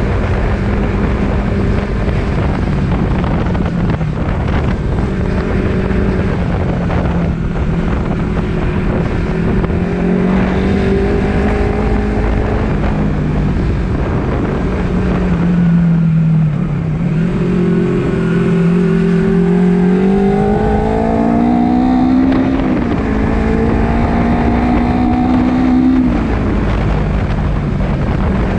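Honda CBR250RR motorcycle engine running on the road, its note rising and falling with the throttle and climbing steeply twice in the second half as the bike accelerates. Wind noise on the microphone runs underneath.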